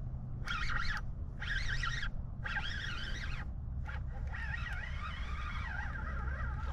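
Birds calling: three short calls with a wavering pitch, then a longer unbroken run of calls from about four seconds in. A steady low rumble runs underneath.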